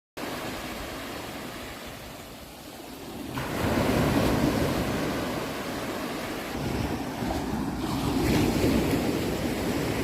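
Sea waves washing in, starting suddenly, with a wave surging up loudly about three and a half seconds in and another near the end.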